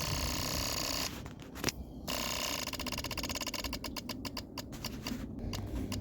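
Motorcycle electric fuel pump running: a rapid buzzing tick that stops about a second in, starts again about two seconds in, then thins out into slower, spaced clicks near the end. The pump is priming the fuel line from an auxiliary tank.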